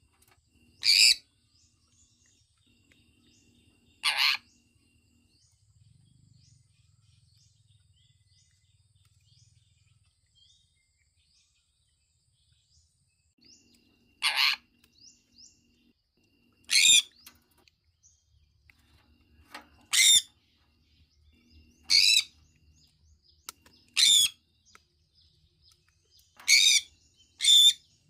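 Sun conure chirping: about nine short, loud, shrill calls at irregular intervals, with a quiet stretch of several seconds in the middle and faint soft chirps between.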